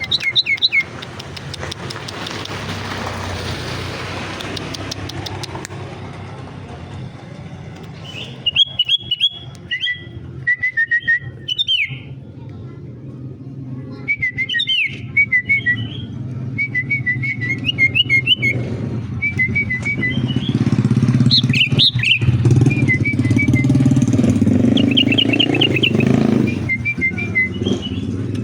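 Sooty-headed bulbul (kutilang) singing short, bright whistled phrases over and over, starting about eight seconds in, over a steady low rumble.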